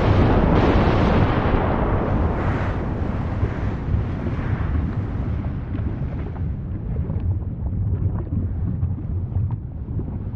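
Volcanic eruption: a loud rushing blast that gradually dies down over the first several seconds, leaving a deep steady rumble with scattered faint crackles.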